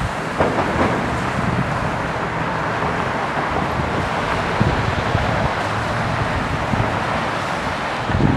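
Steady outdoor rumble of distant airport and road traffic, with wind starting to buffet the microphone near the end.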